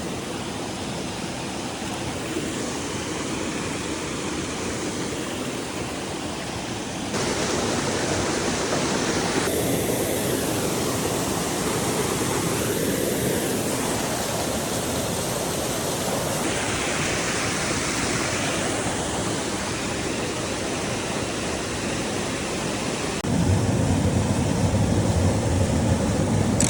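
Mountain brook rushing over rocks, a steady water noise heard across several cut clips. A low rumble joins near the end.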